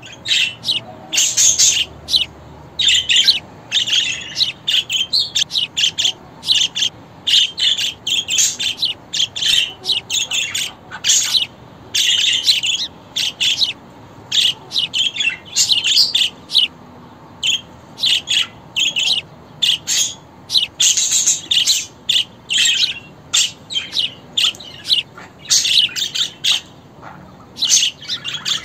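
Budgerigar chatter: a continuous run of short, high chirps and warbles, broken only by brief pauses.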